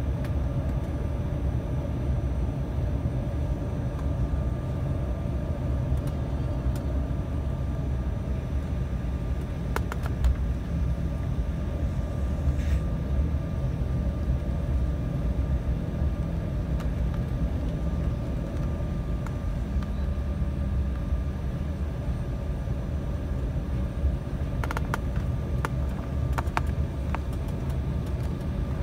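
Cabin noise of an Embraer 195 airliner heard from a rear window seat: its General Electric CF34-10E turbofans running at steady low power over a deep, even rumble, with a faint steady whine. A few light clicks and rattles come about ten seconds in, and again near the end.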